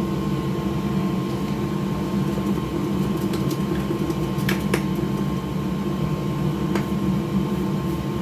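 Steady electric fan hum of workbench repair equipment, with a few faint light ticks of small tools a little past halfway.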